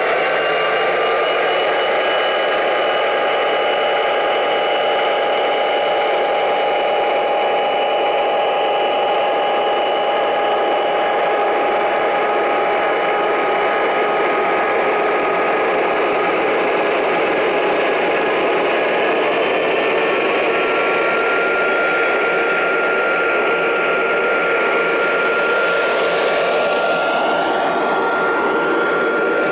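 Digital diesel-locomotive engine sound played through the speakers of O-scale model locomotives, MTH ProtoSound 2 U30C and GP35 sound sets, running steadily under a rough mechanical hiss. Several steady whining tones sit over it; they step up slightly in pitch about a second in, and a new higher tone joins about two-thirds of the way through.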